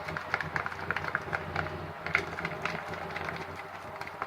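Fluffy slime with freshly added hand soap being stirred in its container: an irregular run of small sticky clicks, several a second, thinning toward the end.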